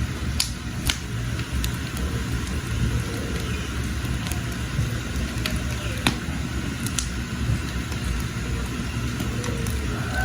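Wood fire burning under a pot of water, a steady low rush broken by sharp crackles and pops about seven times, the loudest about six seconds in.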